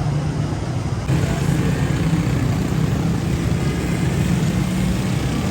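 Steady engine hum of motor vehicles with street noise, changing abruptly about a second in.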